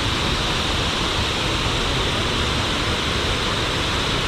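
Shiraito Falls waterfall rushing, a steady, unbroken noise of falling water.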